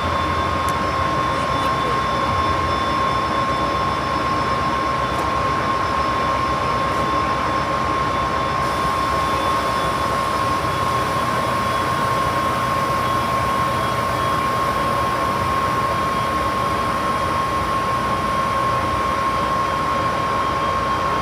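Steady rumble and hiss of a train, with a thin, even whine held throughout.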